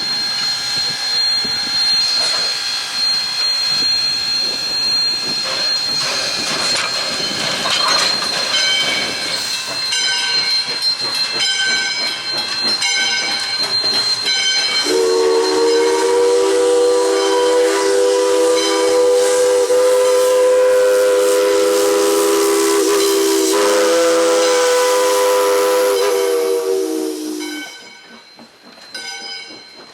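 Steam locomotive running past, with steam hissing and wheels clicking over rail joints, then sounding its chime steam whistle in a long blast followed by a shorter one. The sound falls away sharply once the whistle stops.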